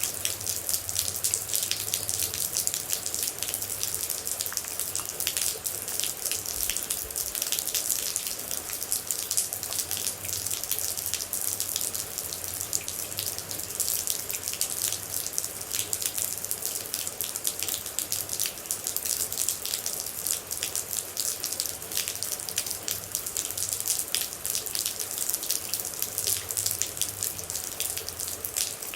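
Steady rain with water droplets falling: a dense, even spatter of many small drops, with no let-up.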